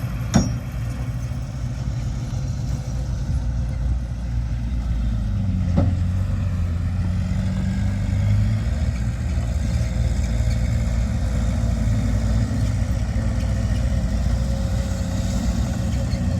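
Heavy diesel earthmoving machinery running steadily, its engine note rising a little between about six and nine seconds in. Sharp knocks sound about half a second in and again near six seconds.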